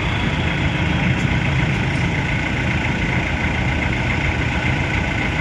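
An engine running steadily at idle, with a low, even hum.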